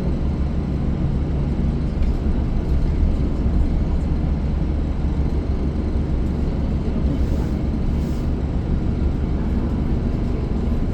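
Steady low rumble of a transit bus on the move, heard from inside the passenger cabin: engine, drivetrain and road noise.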